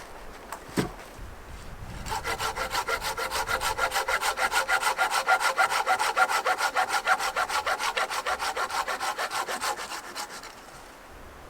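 Hand saw cutting through wood with quick, even back-and-forth strokes, starting about two seconds in and stopping near the end. A single sharp knock comes before the sawing.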